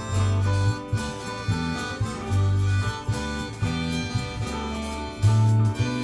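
Rock band playing an instrumental passage: electric bass notes, drums and guitars together at a steady beat.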